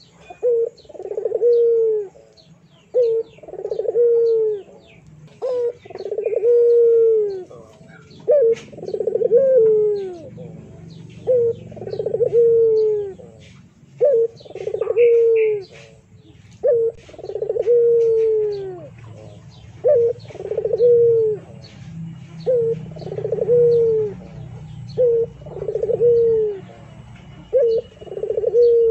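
A bird cooing over and over, each call a short note followed by a longer falling note, repeated about every two to three seconds.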